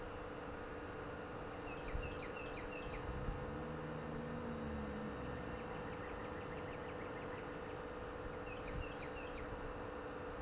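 Short, high bird chirps in two small clusters, about two seconds in and again near the end, over a steady low hum and the low rumble of wind.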